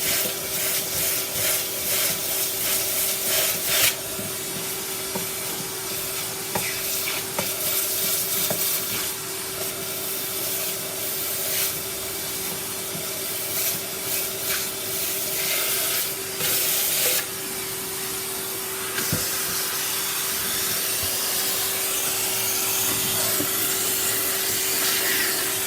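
Rapid rubbing or scrubbing strokes, about three a second, for the first four seconds or so, then a steady hiss over a constant low hum.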